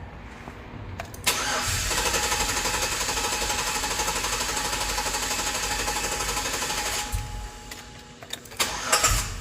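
A 2005 Chevrolet Tahoe's 5.3L V8 is cranked on the starter for about six seconds, with a steady even churn, and does not start. The ground voltage is spiking on each coil firing, so the coils are not firing. A few short knocks follow near the end.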